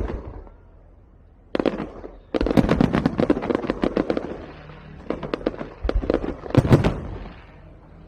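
Fireworks going off in rapid crackling runs of sharp bangs: a short run, then two longer ones, the loudest bangs coming near the end.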